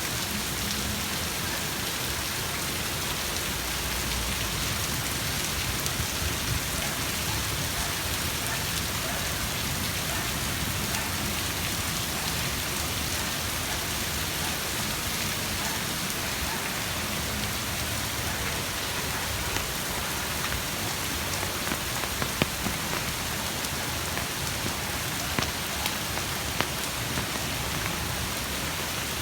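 Rain falling steadily, with a few sharper drop hits in the second half.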